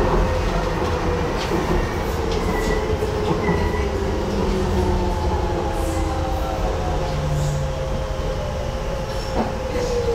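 Docklands Light Railway train running on the track: a steady wheel-and-rail rumble under the whine of its electric traction motors. The whine glides slowly down in pitch as the train slows.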